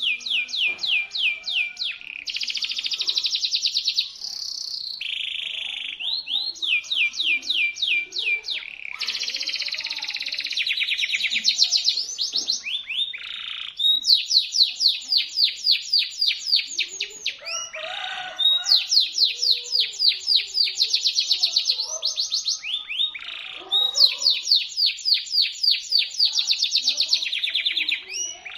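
Domestic canary singing a shrill, unbroken song of rapid trills. Each run of fast repeated notes lasts a second or two before switching to a new note type.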